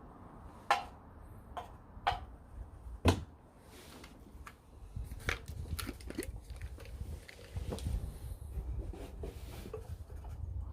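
Cookware being handled at the stove: a few sharp clinks and knocks in the first three seconds, the loudest at about three seconds. A low rumble with small clicks follows from about halfway.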